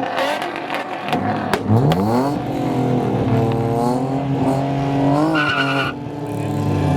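Car engine revving: the pitch climbs sharply about two seconds in and holds high, then climbs again near the end with a brief high squeal.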